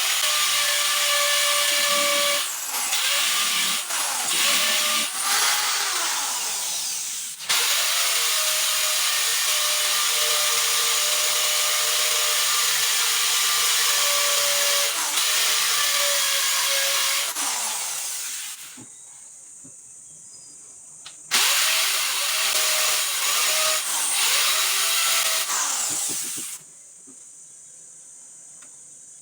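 Electric power tool running on wood in long stretches, its motor note steady under load. It stops about 18 seconds in, starts again around 21 seconds, and stops again about 26 seconds in.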